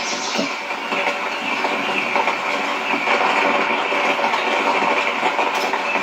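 Steady rain hiss with faint scattered patters.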